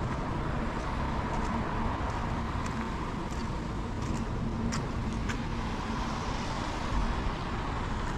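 Steady hiss of heavy rain, with scattered sharp ticks of drops striking close by.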